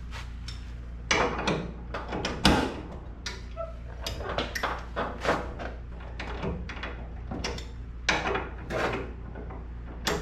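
Metal hand tools knocking and scraping against the front suspension in irregular clunks as the ball joint is worked by hand, over a steady low hum.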